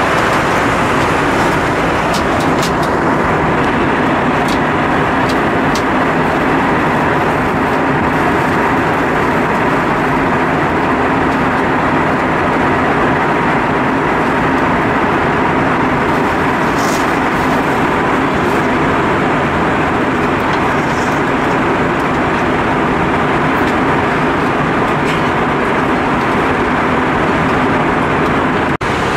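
Steady cabin noise of an Airbus A320-232 in flight: an even rushing of engines and airflow, with a brief dip just before the end.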